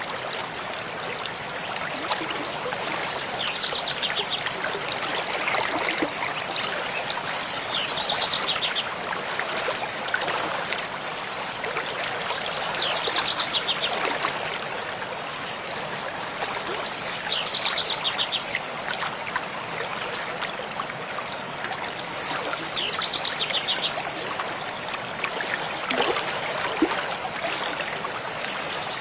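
A mountain stream flowing steadily, with a bird singing the same short, high phrase over it about every five seconds.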